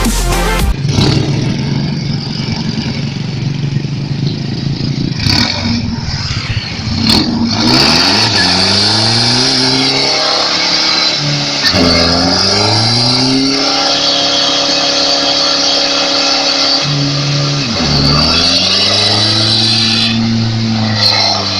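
Car engine revved up and down several times, its pitch climbing and dropping, with stretches held at high revs in between.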